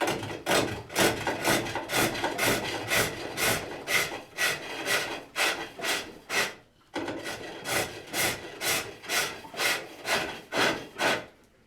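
Hook tool cutting the spinning wood on a pole lathe: a rhythmic rasping cut at about two strokes a second as the lathe spins back and forth. The cutting pauses briefly about seven seconds in, resumes, and stops just before the end.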